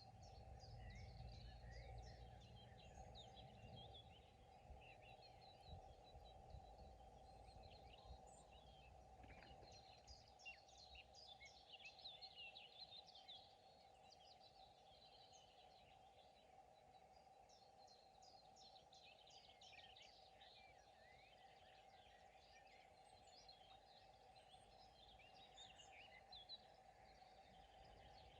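Faint chorus of small songbirds chirping and trilling, many overlapping short calls, over a steady mid-pitched hum. A low rumble underneath fades out about twelve seconds in.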